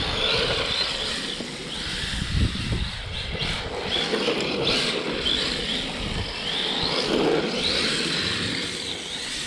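Stock brushed electric motor of an HSP Flying Fish 1/10 RC drift car on a 7.4 V lithium battery, whining up and down in pitch again and again as the throttle is worked.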